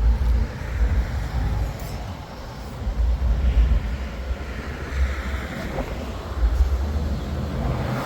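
A car's engine and exhaust rumbling low and unevenly as the car drives off.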